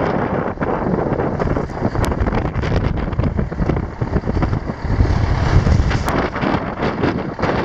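1980 GMC Brigadier grain truck's 318 Detroit Diesel, a two-stroke V6, running, with wind buffeting the microphone.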